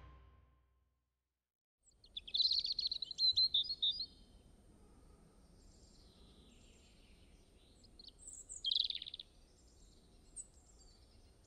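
Wild birds singing outdoors: short chirping phrases about two seconds in and again around eight to nine seconds, over faint outdoor ambience.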